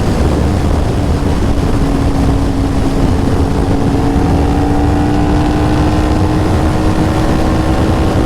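Sport motorcycle engine running at steady road speed, its note rising slowly as the bike gathers speed, under heavy wind rush on the helmet microphone.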